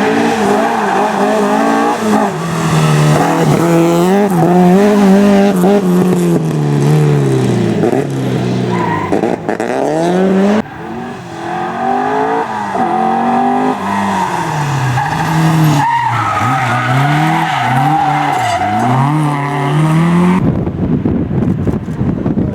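Rally car engine revving hard, pitch climbing and dropping again and again through rapid gear changes. The engine sound cuts off about two seconds before the end, leaving a noisy hiss.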